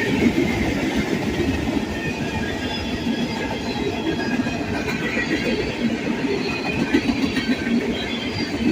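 Freight train cars rolling past on the rails: a steady rolling rumble with faint, wavering high-pitched wheel squeal.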